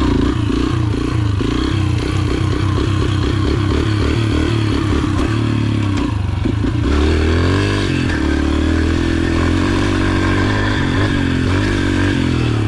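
Yamaha TTR125 pit bike's small single-cylinder four-stroke engine running under riding load, its revs rising and falling as the throttle is worked, with one clear climb and drop about seven seconds in.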